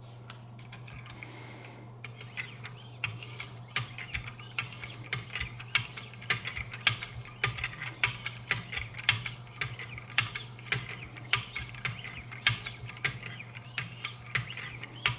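Wicked Edge 2,200-grit diamond stones scraping along a knife blade in sharpening strokes, about two a second, starting about two seconds in. A steady low hum runs underneath.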